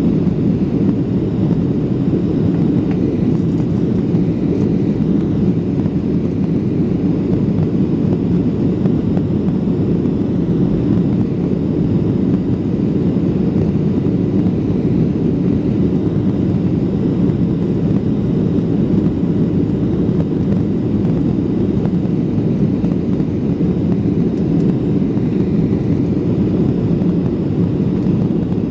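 Steady low rumble of a Boeing 737 jet airliner's engines, heard from inside the passenger cabin, even and unchanging throughout.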